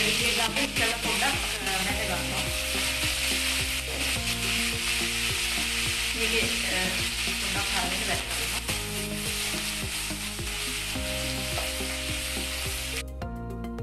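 Dried sprats frying in hot oil in a metal pan: a loud, steady sizzle, with a spoon clinking and scraping against the pan as they are stirred. The sizzle cuts off suddenly near the end.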